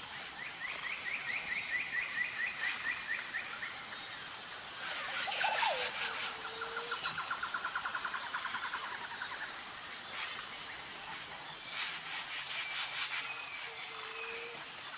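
Birdsong outdoors: a rapid trill of repeated notes early on and a second, lower trill about six seconds in, with a brief swooping call between them. A high, pulsing buzz, likely insects, runs underneath.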